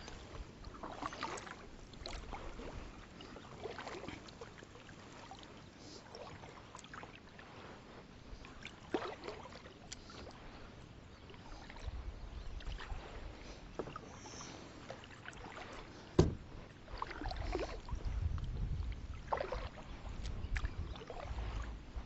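Fishing kayak moving across a lake, with soft water strokes every second or two. A single sharp knock comes about two-thirds of the way through, and a low rumble builds near the end.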